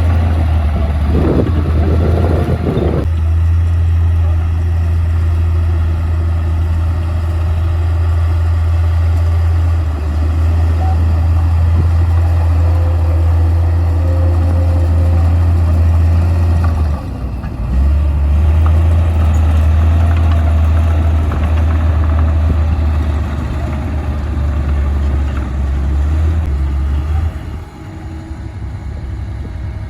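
Komatsu D58P crawler bulldozer's diesel engine running with a loud, steady low drone. The drone breaks off briefly about halfway through and eases off near the end.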